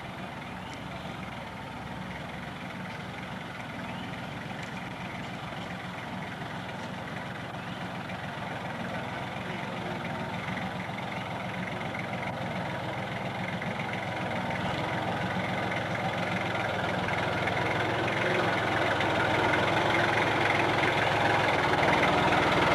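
Tractor engine running at a steady pace, growing steadily louder as it draws nearer.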